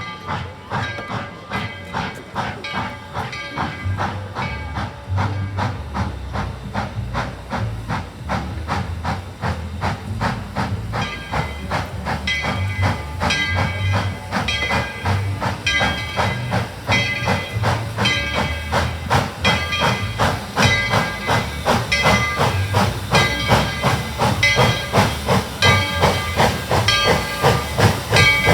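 Steam locomotive working with quick, regular chuffs and hissing steam, growing louder as it comes on. From about a third of the way in, a high ringing tone repeats at a steady beat over the chuffing.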